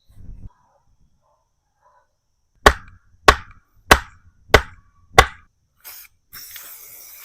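Five sharp, evenly spaced hammer blows, about two-thirds of a second apart, then a steady hiss near the end.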